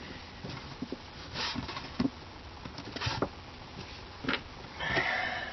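Handling of tools and materials: scattered light knocks and clicks, with a few short rustling scrapes, the last and longest near the end.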